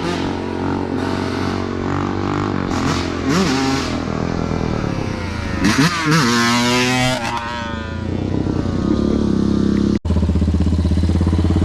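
Dirt bike engines running and revving, with the pitch rising and falling a few times in the middle, then settling into a steadier, louder note. The sound cuts out for an instant near the end.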